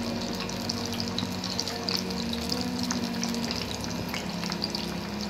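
Banana molen pastries deep-frying in hot oil: a steady bubbling sizzle with small scattered crackles, as a wooden spatula turns them in the pan.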